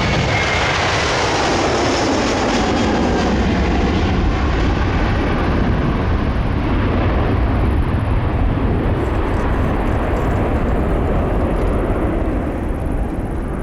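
Jet airliner passing close by, its engines running with a loud rumble and a whine that falls in pitch during the first couple of seconds; the high-pitched part of the noise fades as the aircraft moves away.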